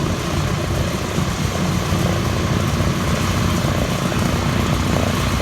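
Boeing B-17 Flying Fortress's four radial piston engines running with a steady propeller drone that grows slightly louder.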